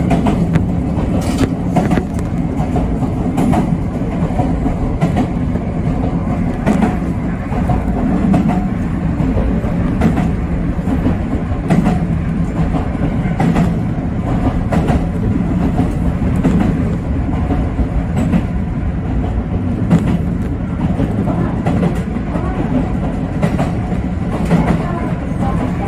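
Yoro Railway 7700-series electric train running at a steady speed: a constant rumble and hum of the running gear, with wheels clicking over rail joints about every one and a half to two seconds.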